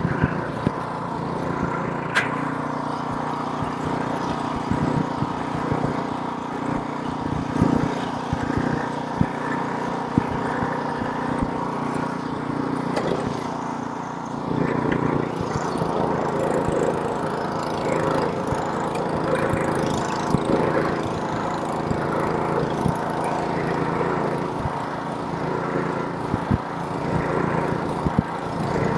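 Gas snowblower's small engine running steadily, with many short sharp clicks and knocks.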